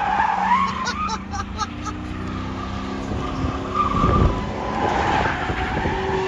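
A car driven hard, its engine revving while the tyres squeal and skid, as in a burnout or donut. The engine pitch climbs through the middle, with a wavering squeal at the start and again around four seconds in.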